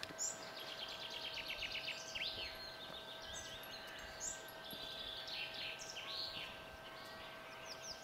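Songbirds singing: quick repeated trills and short rising and falling chirps from several birds, over a faint steady tone.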